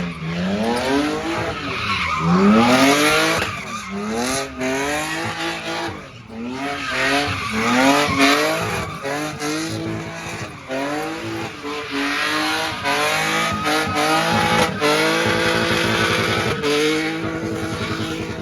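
A car engine revved hard over and over, its pitch climbing and falling in quick cycles, with tires squealing and spinning on the pavement as the car does a burnout-style stunt. The sound cuts off abruptly near the end.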